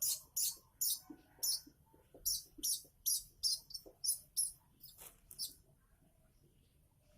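Young weaver bird (manyar) giving high-pitched begging chirps in quick succession, about two or three a second, stopping about five seconds in.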